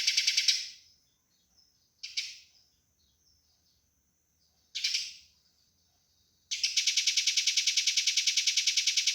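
Eurasian tree sparrow fighting chatter: a fast run of harsh chirps, about ten a second, that breaks off within the first second. Two single calls follow a few seconds apart, then the rapid chatter starts up again about two-thirds of the way through.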